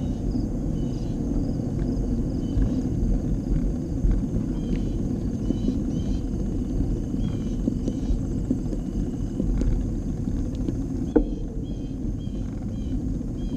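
Steady low rumble of wind on the microphone and bicycle tyres rolling while riding, with a few faint high chirps and a single click about eleven seconds in.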